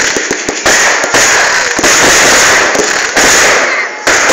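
Fireworks going off in a loud, rapid barrage, a new blast about every second, each followed by a sustained hiss.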